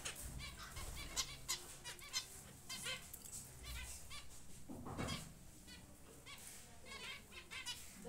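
Cage birds chirping in short, high-pitched notes repeated again and again, with one lower, longer call about five seconds in.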